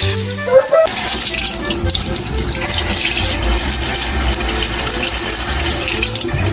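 Steady rush of running water with music underneath, starting suddenly about a second in after a short musical phrase.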